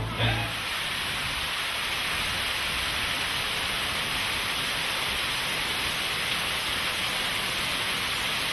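Steady rush of falling water, an even hiss with no rhythm or breaks.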